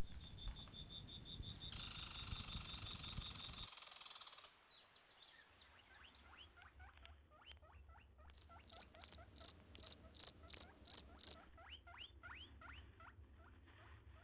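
Wild insects and birds calling. First a fast high trill, then a couple of seconds of hissing insect buzz, then many quick falling chirps, with a run of about ten loud, evenly spaced high pips midway.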